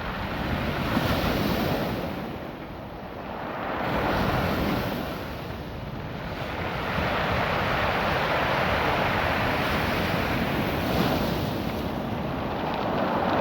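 Ocean surf washing in and out over a beach of small rounded stones, the water rushing in surges that swell and fall back every few seconds, with the stones stirred by the water adding their own distinct sound.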